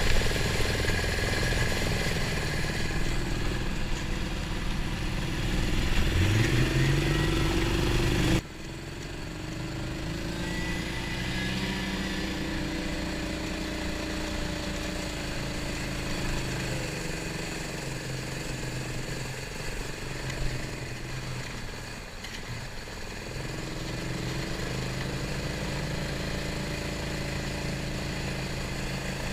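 Snowmobile engine running, revving up with a rising pitch about six seconds in. The sound cuts abruptly at about eight seconds to a quieter, steady engine note that dips and rises again later on.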